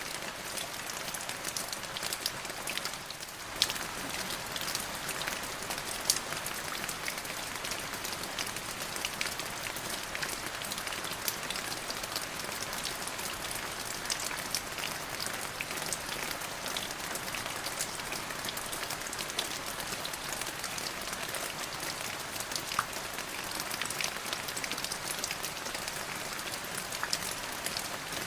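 Steady rain falling, with many individual drops ticking sharply on a hard surface. It dips briefly about three seconds in, and a few drops strike louder than the rest.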